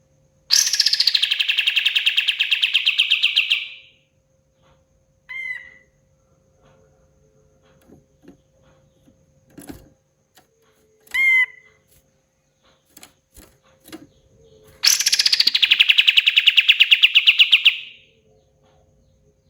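Kapas tembak singing: a long, fast rattling trill of about three and a half seconds that starts high and drops, repeated once after a pause. Two short whistled notes fall between the trills, with scattered faint clicks.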